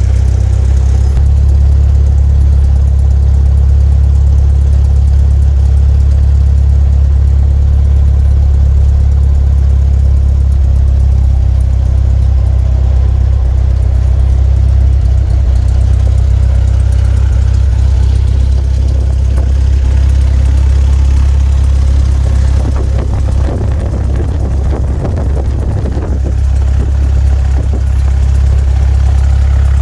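Light aircraft's piston engine running at idle, heard inside the cockpit as a loud, steady, low drone.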